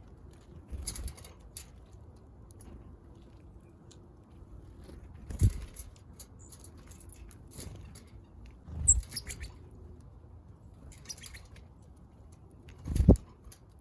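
Small backyard birds flapping their wings in four short flurries as they fly in and out close to the microphone, the last the loudest, with a brief high chirp near the middle.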